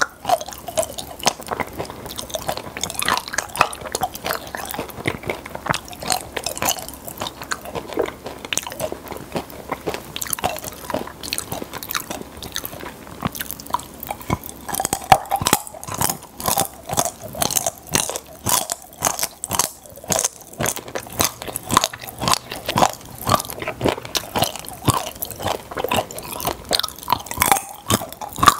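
Close-miked chewing and crunching of popping-candy chocolates, with many small sharp clicks and pops running irregularly all through.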